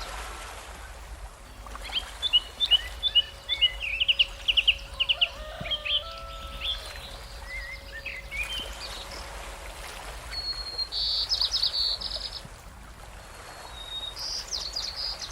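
Birds singing: a run of quick chirps and trilled notes, then two short rapid trills later on, over a steady low background hum.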